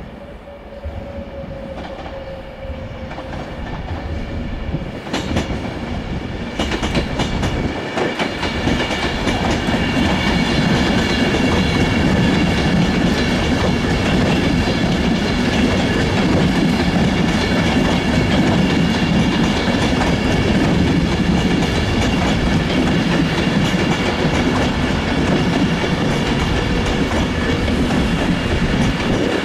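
Train approaching and running through the station, growing louder over the first ten seconds or so and then holding steady, with wheels clattering over rail joints and a high whine above the running noise.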